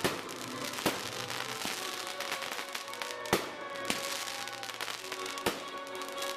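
Fireworks going off in sharp bangs: one right at the start, one about a second in, one past three seconds and one past five. Music plays underneath throughout.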